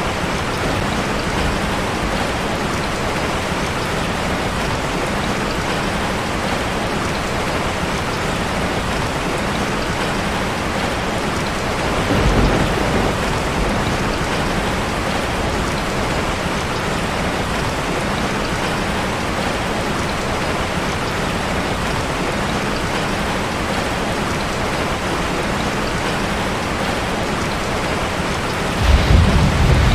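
Steady heavy rain drumming on a metal roof, an even continuous hiss. A low rumble swells about twelve seconds in, and a stronger low rumble comes near the end.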